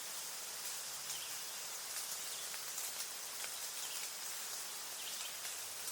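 Outdoor nature ambience: a steady high hiss with faint short bird chirps every second or so.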